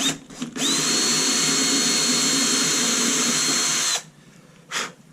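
Small cordless drill with a 2 mm bit running at steady speed for about three seconds, a constant high whine over the motor, drilling a mounting hole for a model plane's landing gear, then stopping sharply. Two short blips from the drill come just before it.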